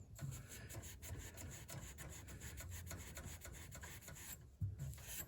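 Fine steel wool rubbing on a furnace flame sensor rod in a quick, faint run of scratchy strokes, cleaning the sensor.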